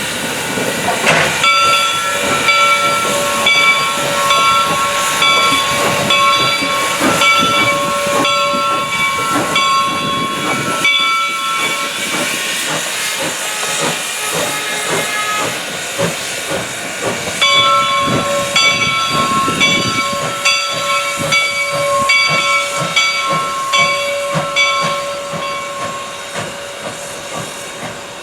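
Steam locomotive hissing steam, with a ringing signal of several tones sounding in short, evenly repeated notes for about ten seconds. It stops for a few seconds, then starts again.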